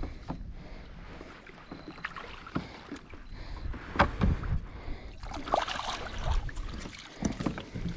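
Handling noise in a fishing kayak: scattered knocks and clicks against the hull, the sharpest about four seconds in, with a short patch of small clatter a little later.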